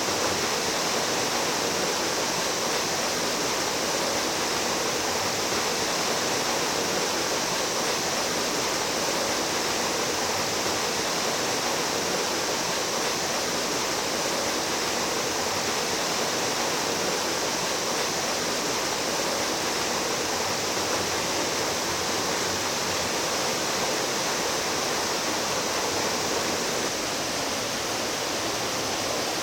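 Mountain stream water rushing and splashing in a steady, unbroken rush.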